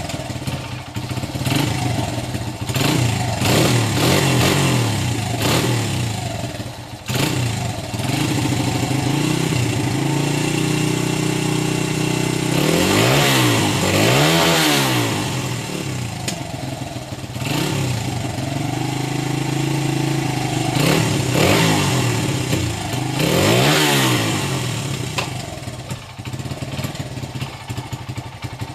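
Single-cylinder four-stroke engine of a 1996 Honda XR100 dirt bike running at idle, blipped up and back down twice about halfway through and twice more a few seconds later.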